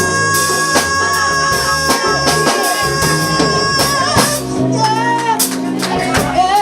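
Live band music with drum kit and bass: a long note held for about four seconds, then shorter sung phrases over the beat.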